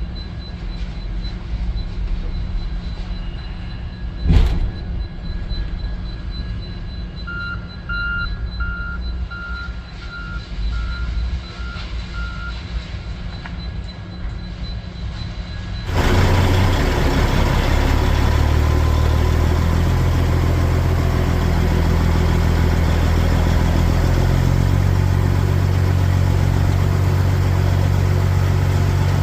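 Low steady rumble with one sharp knock, then a backup alarm beeping about nine times and growing fainter. After an abrupt cut, a semi truck's diesel engine runs louder, its pitch stepping up a few times as the truck pulls away.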